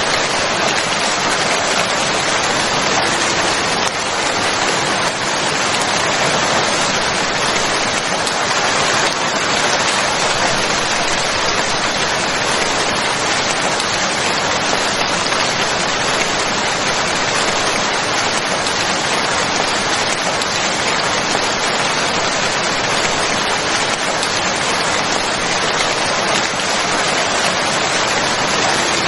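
Steady heavy rain falling, an even rushing patter without breaks.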